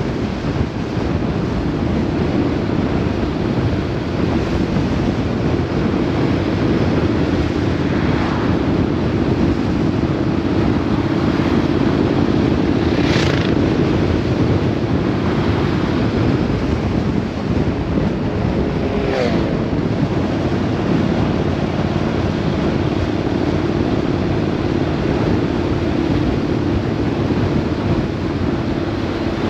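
Road vehicle running steadily at speed, a constant engine hum under heavy wind noise on the microphone, with two brief rushing swells partway through.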